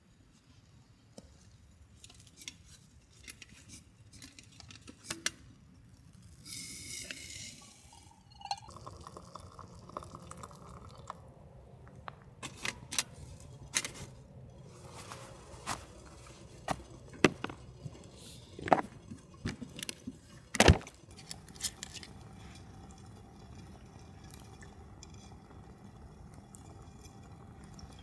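Camp cookware being handled: water poured briefly into a metal pot or kettle, then a series of light metal clinks and knocks, two of them louder near the end.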